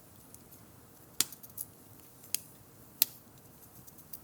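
Three sharp clicks of kitchen utensils being handled while food is prepared, with a few fainter ticks between them.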